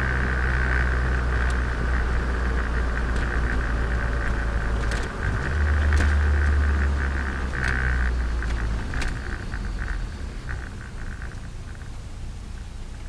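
Turbocharged Nissan Micra engine heard onboard while driving: a steady low drone with a high whine above it. The engine note rises about five seconds in, then falls away and grows quieter as it eases off over the last few seconds.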